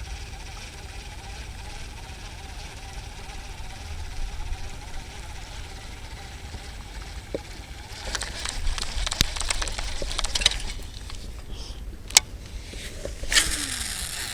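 Wind buffeting the microphone in a low steady rumble, with a stretch of crackling, rustling handling noise about eight seconds in and a couple of sharp clicks near the end.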